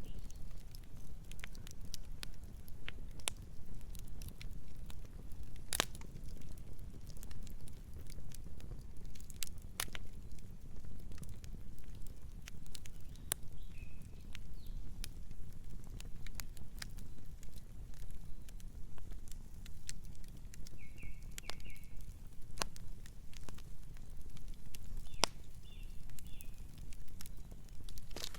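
Campfire burning: wood crackling with scattered sharp pops, one louder pop about six seconds in, over a low steady rumble.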